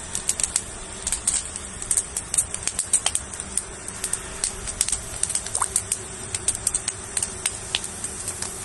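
Fire crackling in a fireplace, with irregular sharp pops and snaps several times a second over a steady hiss.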